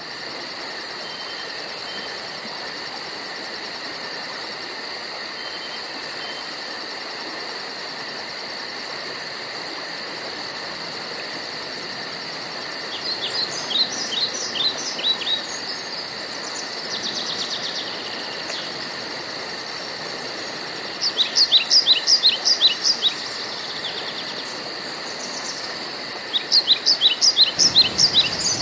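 Woodland ambience: a steady high insect chorus with a fast, even pulsing buzz. Over it, a songbird gives a quick series of sharp descending notes three times: a little before halfway, about three-quarters through, and near the end.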